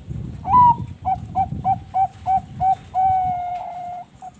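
Zebra dove (perkutut bangkok) song: an opening higher coo, then about seven short, evenly spaced coos at roughly three a second, ending in one long held coo that sags slightly in pitch. A low rumble lies under the first three seconds.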